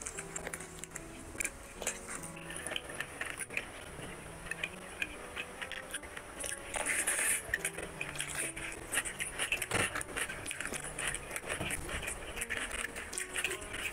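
Close-miked chewing and wet mouth sounds of a person eating handfuls of rice and mutton curry, with many small clicks and crackles. Fingers squish and mix rice on the plate near the end, over soft background music with held notes.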